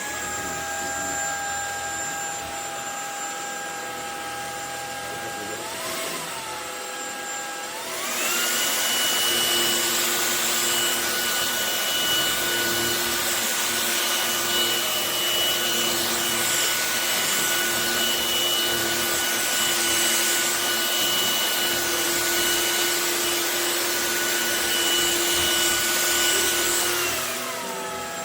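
Cordless stick vacuum cleaner's brushless motor running with a steady whine. About eight seconds in, it speeds up to a higher, louder pitch, then drops back down near the end.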